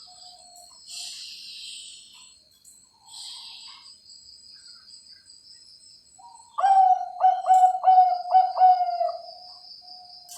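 Zebra dove (perkutut, Bangkok strain) cooing: a soft note early, then about two-thirds in a loud phrase of five quick stuttering notes that ends on a drawn-out note.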